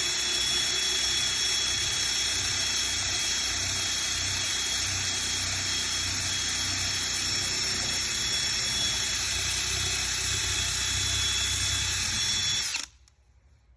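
Power sander running steadily with a high whine as it sands old paint off a vehicle hood, then switched off about 13 seconds in, its whine dipping as it stops.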